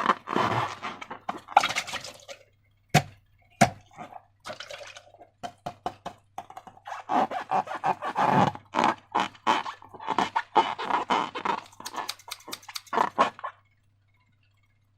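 Slime being squished and stretched by hand: runs of wet, sticky squelches and crackles, with two sharp snaps about three seconds in. It stops about a second and a half before the end.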